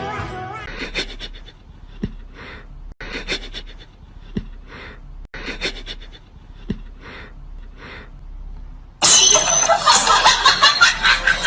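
Rhythmic breathy panting, about one breath a second. About nine seconds in, a sudden, much louder harsh noisy burst takes over.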